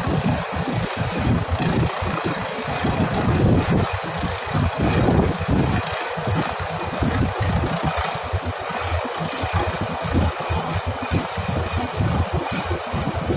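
Helicopter running close by during a deck landing or hover, its engine and rotor giving a steady din. Rotor downwash gusts against the microphone, so the low end flutters irregularly.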